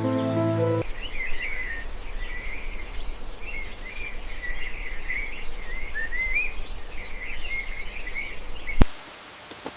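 Songbirds chirping in a dense, continuous twittering of many short high notes over a low steady rumble. Soft music with sustained notes fades out about a second in, and the bird chatter stops abruptly with a sharp click near the end.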